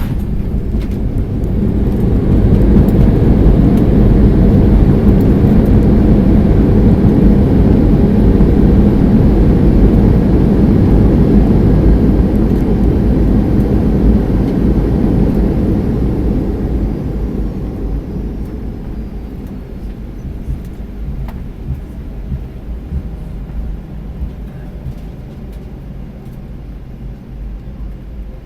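Boeing 737-800 landing rollout heard from the cabin: a sharp bump right at the start, then the CFM56 engines' reverse thrust and runway rumble build to a loud roar within a couple of seconds. The roar holds for about twelve seconds and dies away as the jet slows, leaving a quieter steady rumble of taxiing.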